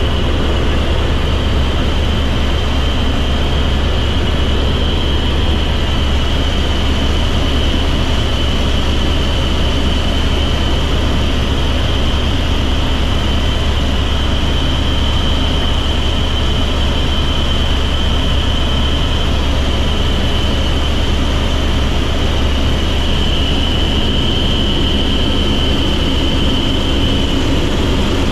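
Helicopter in flight heard from inside the cabin: a loud, steady drone with a constant high tone over it.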